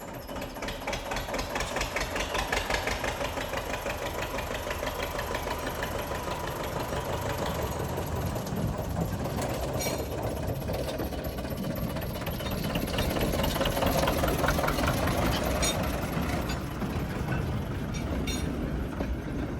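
Small narrow-gauge diesel locomotive engine running with a rapid, knocking beat. It grows louder toward the middle and eases off near the end, with a few sharp clicks.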